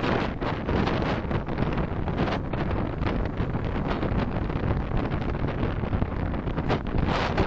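Wind buffeting the microphone of a dashcam in a moving car, over steady road noise, with frequent brief gusts.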